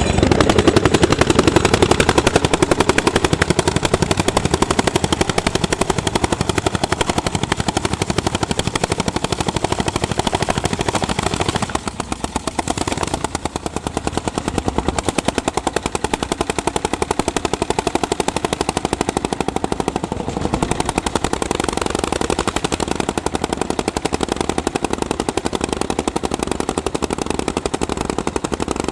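Single-cylinder two-stroke hot-bulb tractor engines running under plowing load, a rapid, evenly spaced train of exhaust beats that eases off a little about twelve seconds in.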